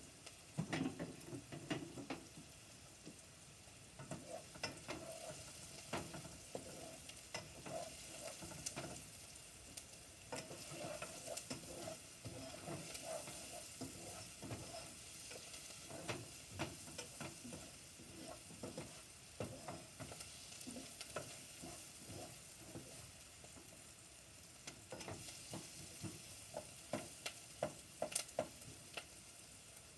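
Food frying in a non-stick pot on a gas burner, stirred with a plastic spatula: a steady sizzle under irregular scrapes and taps of the spatula against the pot, busiest near the start and near the end.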